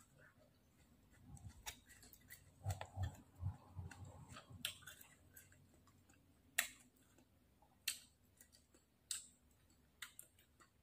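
Faint eating sounds from someone eating a pounded salad by hand: soft chewing thuds for a couple of seconds, then a few isolated sharp mouth or finger clicks.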